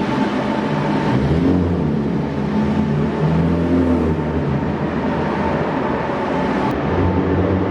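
Car engine and exhaust running at low speed with a deep, steady drone, the revs drifting up and down a little.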